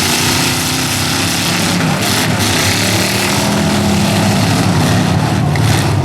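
Engines of several demolition derby trucks running at once, their pitches rising and falling as they rev, over a loud, steady wash of noise.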